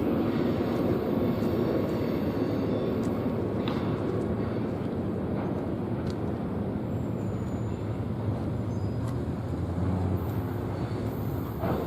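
Freight train rolling past: a steady rumble of cars on the rails that holds even throughout.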